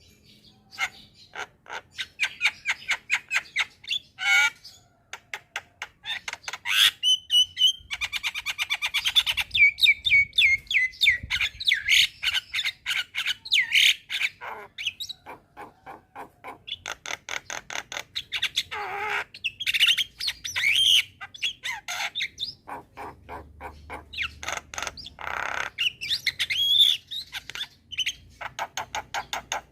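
Javan myna (jalak kebo) singing vigorously: long runs of rapid clicks mixed with whistled notes and harsh squawking calls, with hardly a pause.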